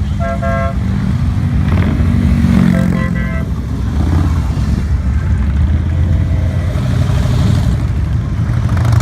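Motorcycle engines rumbling steadily as a group ride goes by. Two short horn toots sound, one at the start and one about three seconds in.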